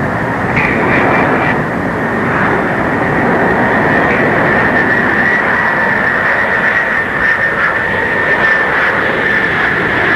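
Boeing 747's turbofan engines running steadily on landing approach: a dense rumble with a high whine that sinks slightly in pitch near the end.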